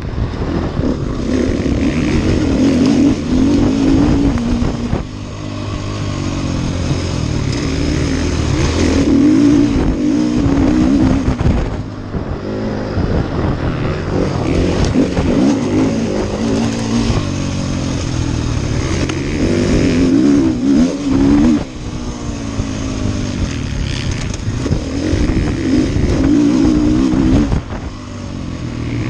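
Off-road racing motorcycle engine revving hard and backing off over and over, its pitch climbing and falling, with sudden throttle cuts about 5, 12, 21 and 27 seconds in.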